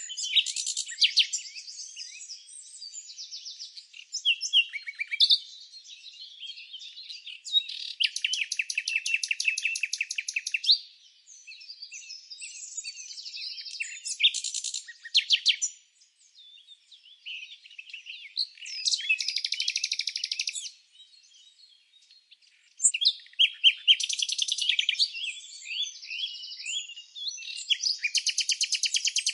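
Birds chirping and singing in a string of song phrases, several of them fast trills of rapidly repeated high notes, with short pauses between.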